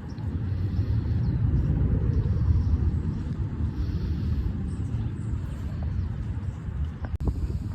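Wind buffeting the microphone, a loud, uneven low rumble that comes up suddenly at the start and holds, with faint bird chirps above it.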